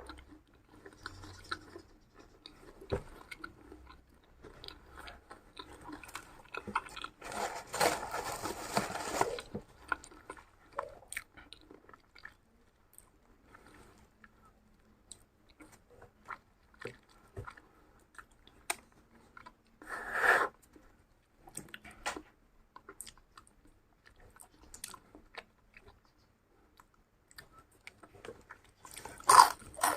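A person chewing and biting crunchy food close to the microphone: irregular crunches and clicks, with a louder, denser spell of crunching a quarter of the way in and a short loud burst about two-thirds of the way through.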